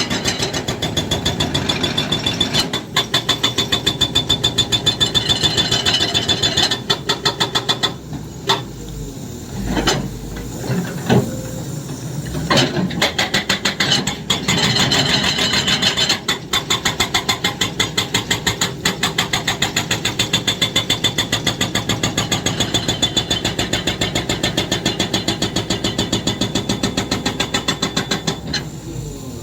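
Excavator's hydraulic breaker hammering in a fast, even run of blows over the diesel engine, breaking off for a few seconds about a third of the way in, with only a few separate knocks, before hammering again.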